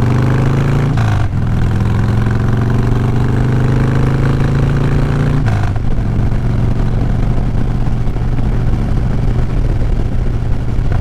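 Motorcycle engine accelerating, its pitch climbing, with two sharp drops as it shifts up a gear, about a second in and again about five and a half seconds in, then running steadily at speed.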